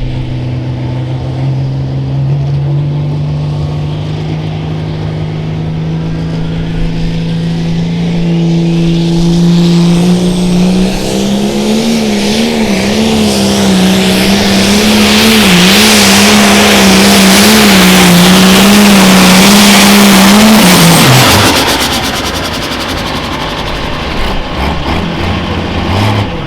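Pro stock pulling tractor's diesel engine running hard under load: its pitch climbs steadily, then holds high and wavers for about ten seconds while the sound is at its loudest. About 21 seconds in, the throttle comes off and the pitch falls away sharply.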